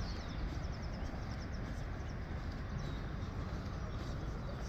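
A small bird chirping, a quick string of short high notes in the first couple of seconds, over a steady low rumble of outdoor background noise.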